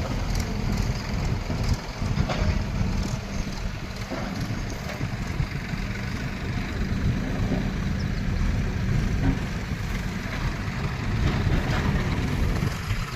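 Heavy diesel machinery engine running steadily at a low, even pitch, with wind buffeting the microphone.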